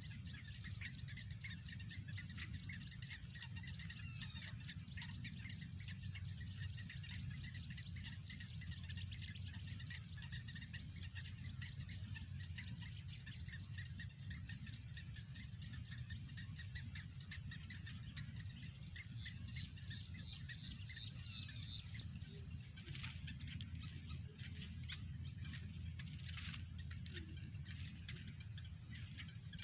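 Outdoor ambience of birds chirping over a steady high-pitched insect drone, with a quick run of chirps about two-thirds of the way through and a low steady rumble underneath.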